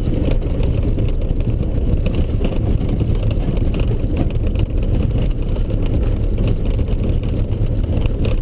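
Ford Ranger 4x4 driving on a rough dirt road: a steady low engine and tyre rumble with frequent small knocks and rattles from the bumps.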